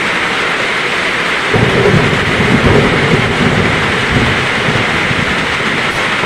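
Heavy rain falling steadily, with a roll of thunder that rumbles in about a second and a half in, peaks soon after and slowly dies away.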